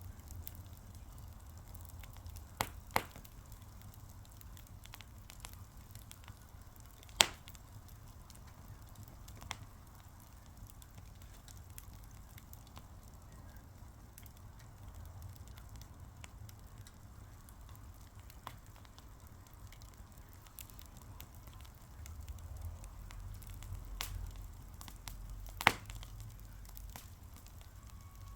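A fire crackling with many small clicks and a few louder sharp pops, about five of them, over a low steady rumble.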